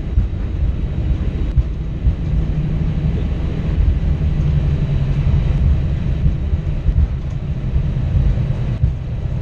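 Steady low rumble of an Airbus A321 heard inside the passenger cabin, the noise of engines, airframe and wheels with no distinct events.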